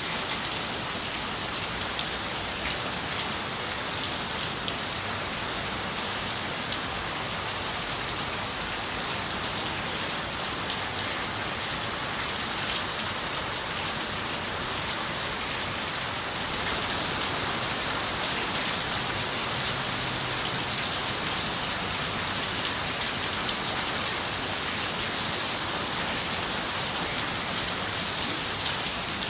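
Steady rain falling on a window, with many small drop ticks through the hiss. It grows a little heavier just past the middle.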